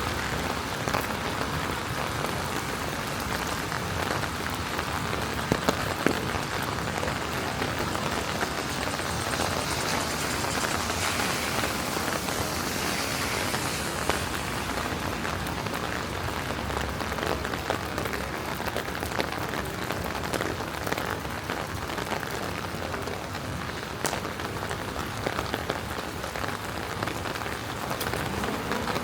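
Steady rain falling on a city street: an even hiss with many scattered, sharp drop ticks.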